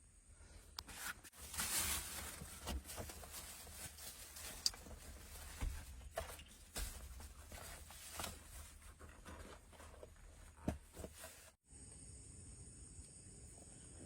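Rustling, footsteps and scattered small knocks and clicks of someone moving about and handling gear, setting up a lamp outside a forest shelter. About eleven and a half seconds in the sound cuts to a steady high trilling of night insects such as crickets.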